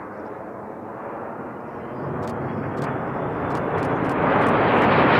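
Aircraft engine noise growing steadily louder as a plane approaches: a rushing sound that swells and brightens over the last few seconds.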